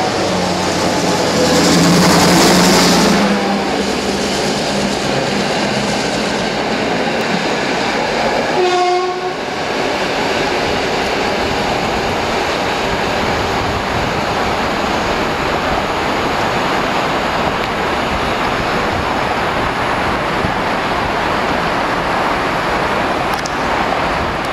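GM/Nohab diesel locomotive running with its train, with a steady rolling rush of wheels on rail. It is loudest about two to three seconds in, and a short horn note sounds about nine seconds in.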